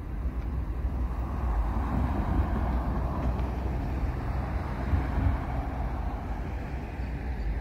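Norfolk Southern diesel locomotives approaching slowly, a steady low rumble of engines and rolling train with no horn. The sound swells a little in the middle.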